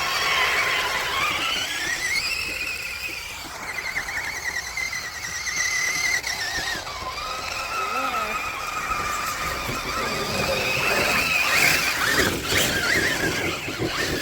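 Electric motors and gearboxes of RC rock-crawler trucks whining, the pitch gliding up and down as the throttle changes. A few short clattering knocks come near the end.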